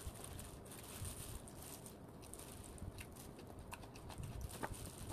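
Faint sounds of a person chewing food close to the microphone, with scattered soft clicks and light taps.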